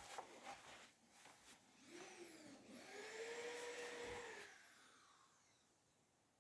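A faint small electric motor whining up to speed, running steadily for about a second and a half, then winding down, after a few light clicks.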